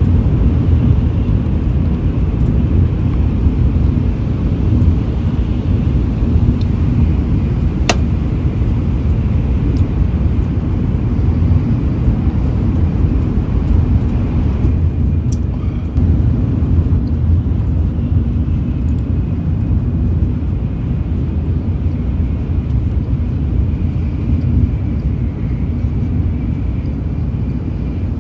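Steady low rumble of a Shinkansen bullet train running, heard from inside the passenger cabin, with a faint high tone above it and a single sharp click about eight seconds in.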